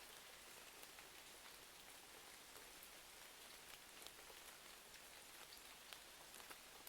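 Faint fireplace-and-rain ambience: a steady hiss of rain with scattered small crackling pops.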